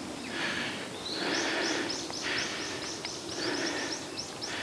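A bird calling a fast series of short rising chirps, about four a second, starting about a second in, over a pulsing hiss of forest background.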